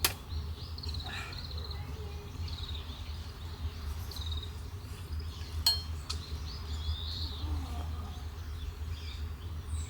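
Small birds chirping on and off over a steady low rumble. There is a sharp click right at the start and a louder, ringing clink a little past halfway.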